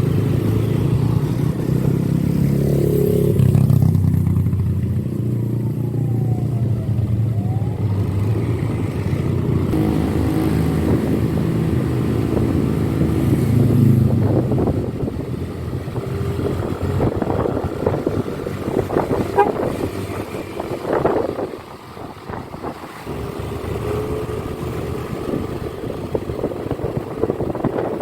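Motorcycle engine running under way on the road, steady for the first half and more uneven later, with a brief drop in level about three-quarters of the way through.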